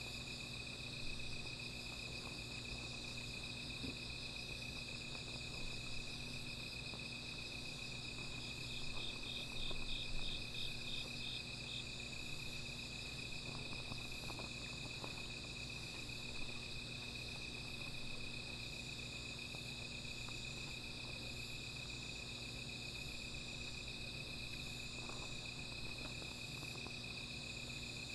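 A chorus of night insects, crickets among them, trilling steadily on a high pitch, with a second insect giving a run of about ten rapid chirps from about eight seconds in to about twelve. Occasional soft crackles and pops from a small wood fire sound over it.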